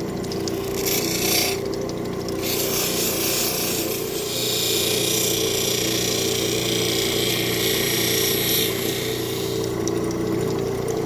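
Lapidary grinding machine's motor running with a steady hum while a Llanite stone is pressed to a spinning coarse grinding wheel. The stone gives a hissing, rasping grind that comes and goes, longest from about four to nine seconds in, as the stone is re-ground to take out a dent.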